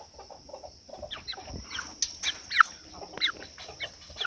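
Chicken clucking in a rapid run of short calls, the loudest about two and a half seconds in.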